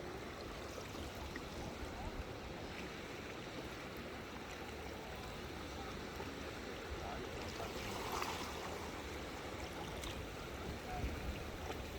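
Steady wash of water at the shoreline, with a low rumble underneath.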